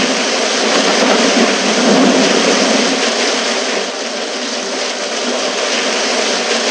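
Loud, steady rushing vehicle noise, easing slightly about two-thirds of the way through.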